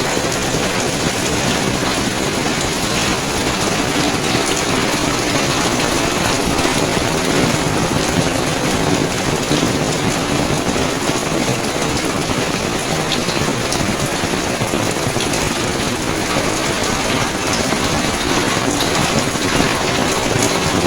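Steady, loud rain: a dense, even hiss full of fine drop ticks.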